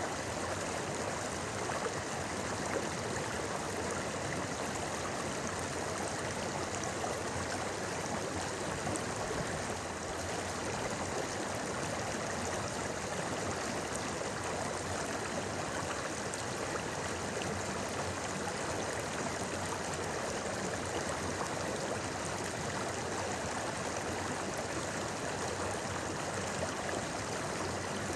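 A shallow river or stream babbling and rushing over rocks, a steady, even flow of water.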